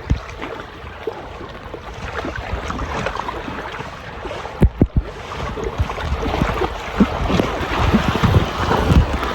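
Wind buffeting the microphone over a steady rushing noise, with two sharp knocks just before halfway.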